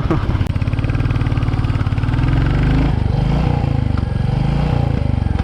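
The 349 cc single-cylinder engine of a 2022 Royal Enfield Classic 350 running under way, with a steady low thumping beat. Its note shifts about three seconds in.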